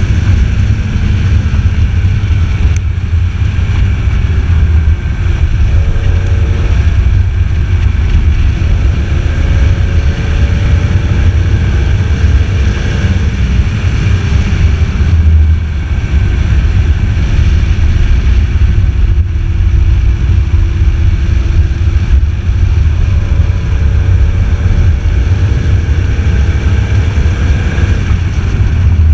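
Heavy wind rumble on the microphone of a BMW Z4 M Roadster at track speed, over its 3.2-litre S54 straight-six engine, which is heard faintly rising in pitch under acceleration several times.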